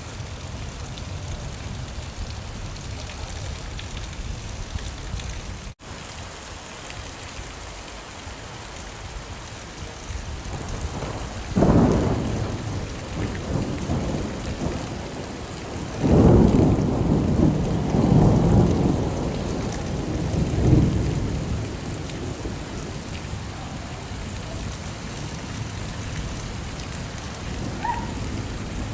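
Steady rain falling, with rolls of thunder rumbling in about halfway through and again a few seconds later. The rain cuts out for an instant near the start.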